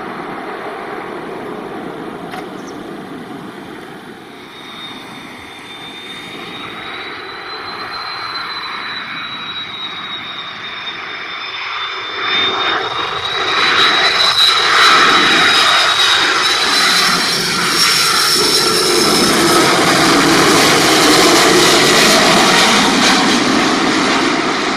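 Airbus A330-300 jet airliner on final approach, its engines passing low overhead. The whine and rush of the engines swell about halfway through and stay loud through the second half.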